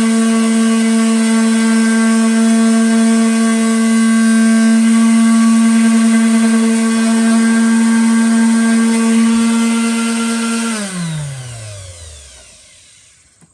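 Electric sander running steadily at a constant pitch while sanding an ash wood round, then switched off about eleven seconds in, its motor winding down with a falling pitch until it stops.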